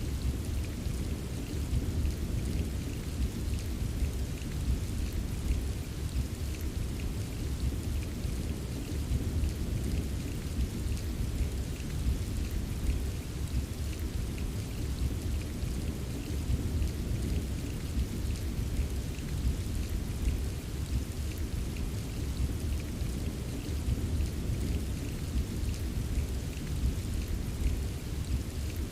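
Recorded rain ambience: steady heavy rain with faint patter of drops over a deep, even low rumble, unchanging throughout.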